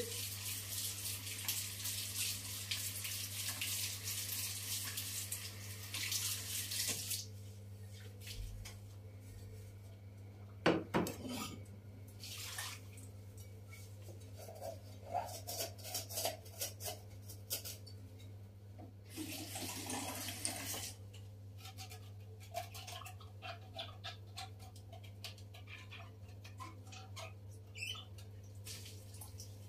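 Kitchen tap running water into a sink for about seven seconds, then shut off. Afterwards scattered light knocks and clinks of things being handled, with one sharp knock about eleven seconds in, over a steady low hum.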